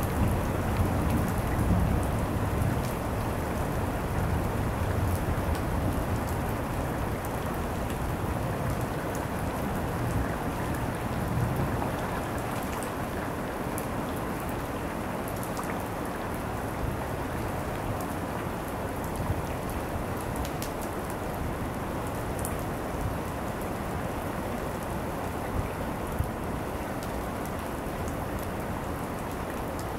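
Steady heavy rain from a thunderstorm, with scattered sharp drop ticks. A low thunder rumble dies away in the first few seconds, and a fainter one follows about ten seconds in.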